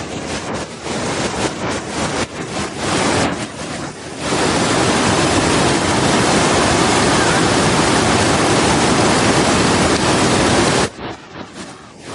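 Waterfall water rushing. It is uneven for the first few seconds, then becomes a louder, steady rush about four seconds in that cuts off abruptly near the end.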